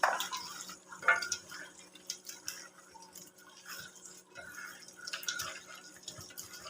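Hands mixing raw chicken pieces into a wet masala paste: soft, irregular squelching and slapping, with a couple of louder squishes near the start and about a second in. A faint steady low hum runs underneath.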